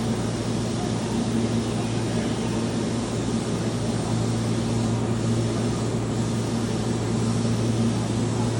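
Keihan electric train at the platform: a steady low electric hum over an even rushing noise, with no change in pitch or level.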